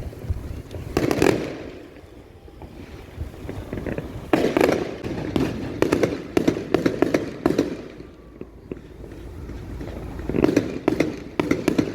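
Fireworks exploding: a burst of bangs about a second in, then rapid crackling volleys of sharp cracks and booms from about 4 to 7.5 seconds and again from about 10.5 seconds.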